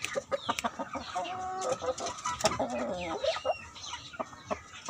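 Rumpless chickens clucking, with several short calls, some held and some falling in pitch, over frequent sharp taps.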